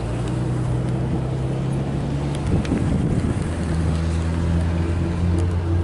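A car engine running steadily at idle. About two and a half seconds in its hum roughens briefly, then settles at a slightly lower pitch.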